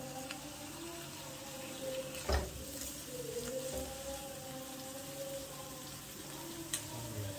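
Crab pieces and spices sizzling in hot oil in a wok as a spatula stirs them, with one sharp knock of the spatula against the pan about two seconds in and a lighter click near the end.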